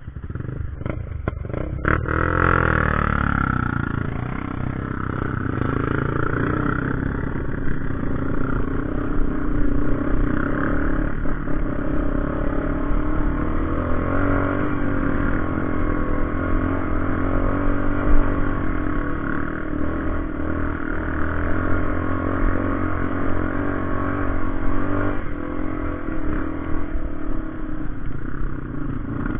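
Motorcycle engine running under way. It revs up in the first couple of seconds, then holds a fairly steady pitch with small rises and falls.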